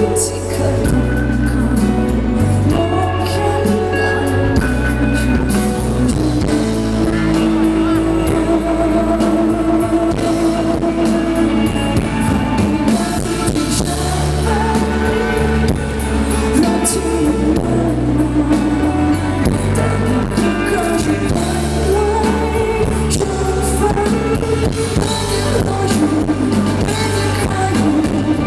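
Live band performance: a woman singing the lead over bass, guitar and drums, with cymbal strikes throughout.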